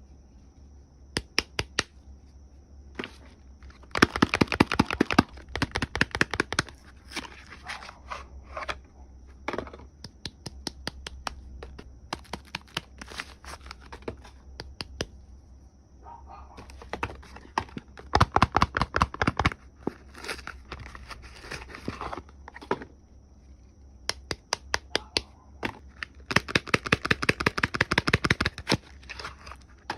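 Soap wrapping being crinkled and torn open by hand: rapid crackling in three longer bursts, about four seconds in, midway and near the end, with scattered crinkles between.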